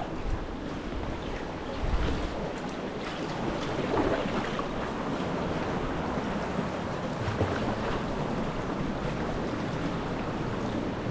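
Wind buffeting the microphone over choppy sea water splashing, with stronger gusts of rumble about two and four seconds in.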